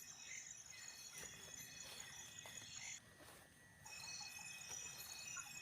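Faint chorus of forest insects: several steady, high-pitched trills at different pitches, crickets or cicadas. Most of the chorus drops out about three seconds in and comes back just under a second later.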